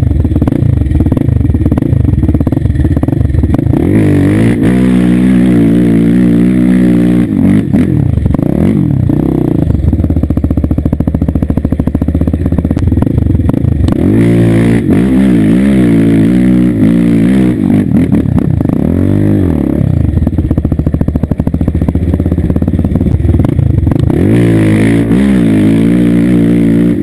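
Small off-road vehicle engine running close by and being revved again and again, its pitch climbing and falling with each burst of throttle.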